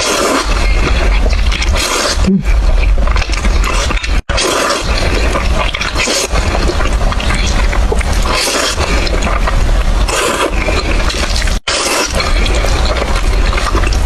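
Close-miked eating sounds of sticky Buldak fire-chicken noodles: continuous wet slurping and chewing. The sound cuts out briefly twice, about four seconds in and near the end.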